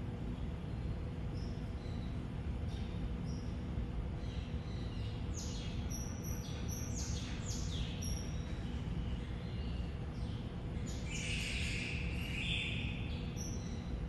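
Birds chirping in short, high notes that drop in pitch, coming in clusters around the middle and again near the end, over a steady low background hum.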